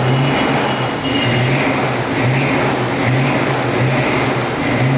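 Car engine idling through a Flowmaster exhaust, a deep steady exhaust note that swells and dips about once a second.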